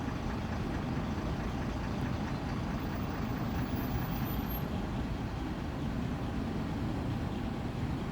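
Mitsubishi Fuso Aerostar city bus's diesel engine idling with a steady low rumble.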